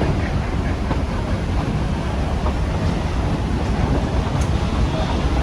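Narrow-gauge Georgetown Loop Railroad train heard from on board, a steady low rumble of the cars rolling on the rails as it climbs.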